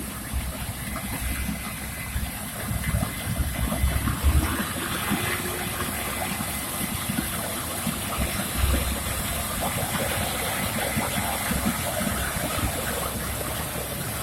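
A combine harvester running steadily during wheat harvest: a continuous rushing machine noise with uneven low rumbling.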